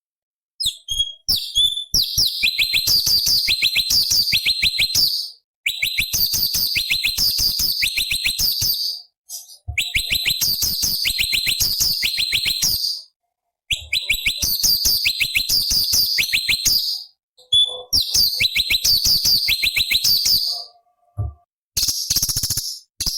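Cucak cungkok (leafbird) singing in phrases about three seconds long. Each phrase is a fast run of sharp, high, down-slurred notes, and brief pauses separate the phrases.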